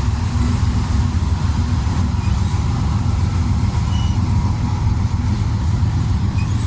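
Slow freight train rolling past: a loud, steady low rumble of cars on the rails.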